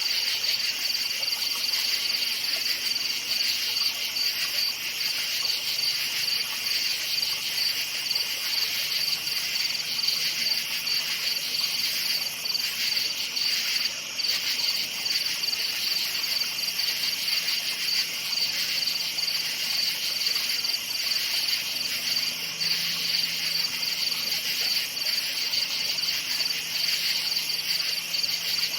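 Many crickets chirping together in a steady, dense, high-pitched trill.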